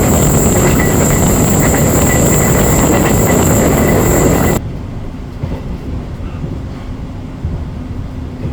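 Passenger train running on the rails, a loud rumble with a steady high whine over it, cutting off suddenly about four and a half seconds in to a quieter, steady rumble.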